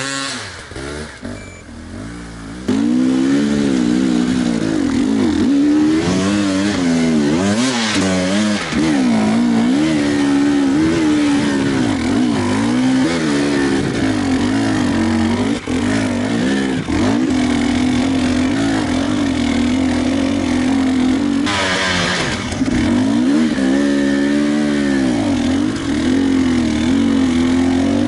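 Enduro motorcycle engine revving up and down, the pitch rising and falling every second or so. It is quieter for the first two or three seconds, then loud.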